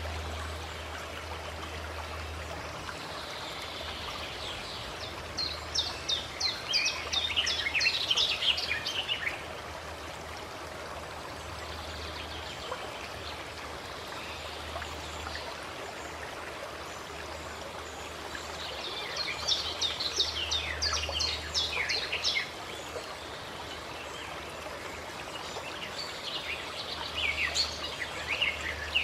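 A songbird singing three bursts of quick, high trilling notes, each a few seconds long, over the steady rush of a flowing stream.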